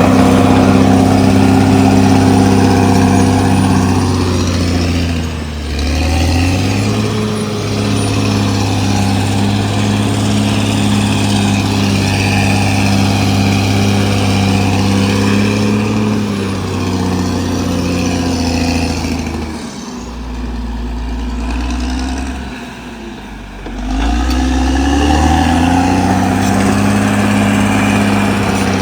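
Caterpillar D6R XL bulldozer's diesel engine running steadily; its pitch drops and climbs back about five seconds in, and again for several seconds past two-thirds of the way through.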